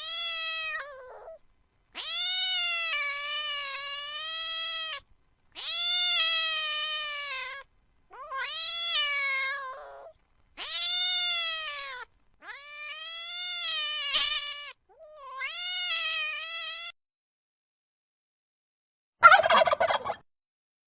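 A domestic cat meowing over and over, about seven long, drawn-out meows one after another. Near the end, after a pause, there is a short, loud burst of bird calling, louder than the meows.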